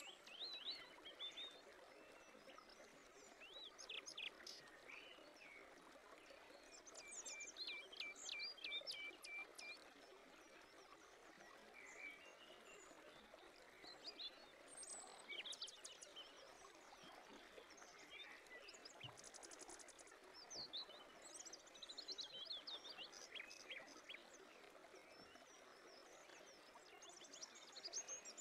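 Faint birdsong: several birds chirping and whistling on and off, including a run of quick repeated notes about eight seconds in, over a soft steady outdoor hiss.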